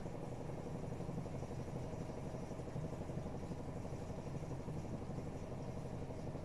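AEG Öko-Lavamat 76910 washing machine running mid-cycle: a steady mechanical hum with a constant low drone and a held higher tone.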